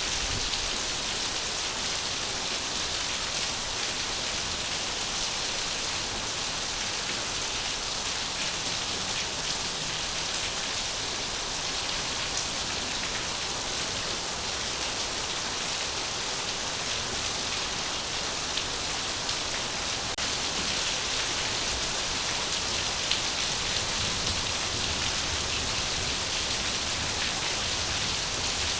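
Steady rain falling on a surface: a constant, even hiss with fine patter that does not change.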